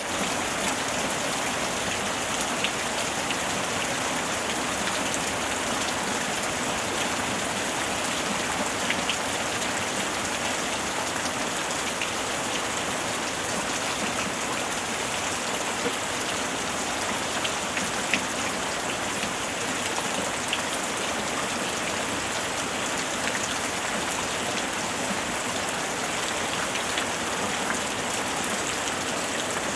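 Steady rain falling, a continuous even hiss with individual drops ticking on a surface throughout.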